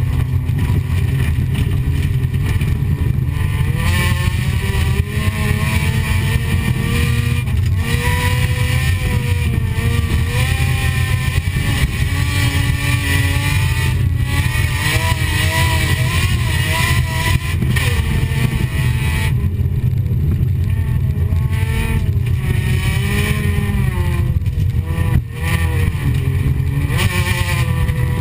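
Folkrace car's engine heard from inside the cabin under hard driving, its pitch rising and falling again and again with throttle and gear changes over a loud, steady drone.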